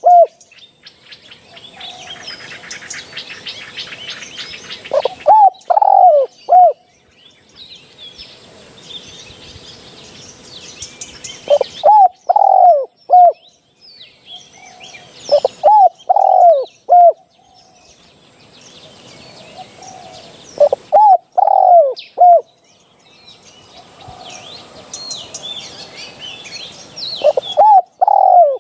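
Spotted dove cooing its short phrase of three or four low, curved notes, repeated about every three to six seconds. Small birds chirp faintly and high-pitched between the phrases.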